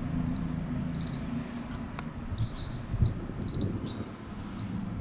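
Short high chirps of small birds, coming irregularly, singly and in quick little runs, over a steady low hum of distant traffic. A soft low thump about three seconds in.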